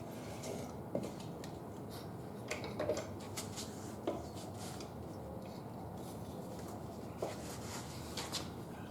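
Scattered light metallic clicks and taps with some rubbing: hand tools working a motorcycle tyre's bead on its wheel rim.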